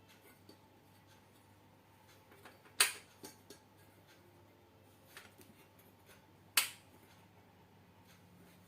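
Hand work on metal parts: two sharp clicks or knocks, about three seconds in and again near seven seconds, with lighter clicks and taps around them over a faint steady hum.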